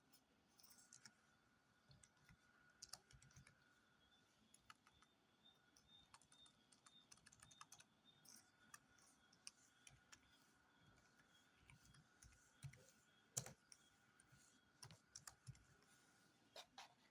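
Faint, irregular clicking of a computer keyboard being typed on, with a few louder clicks, over a faint steady high tone.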